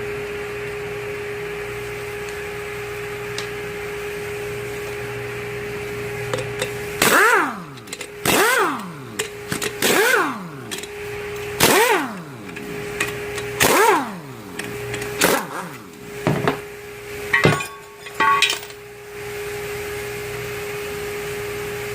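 Power impact wrench run in a string of short bursts, each winding down in a falling whine, as it takes the 14 mm flywheel bolts off a Mazda 13B rotary engine. A steady hum runs under it before and after the bursts.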